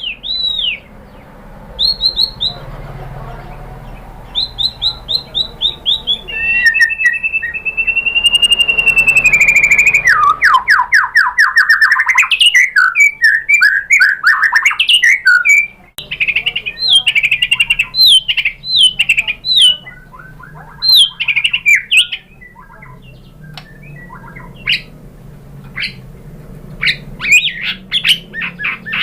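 White-rumped shama singing a loud, varied song: runs of repeated down-slurred whistles, a long held whistle that ends in a fast rapid trill about a third of the way in, then quick chattering phrases.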